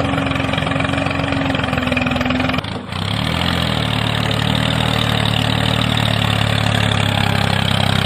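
A tractor engine idling steadily. It breaks off briefly a little under three seconds in, then runs on at a lower, deeper pitch.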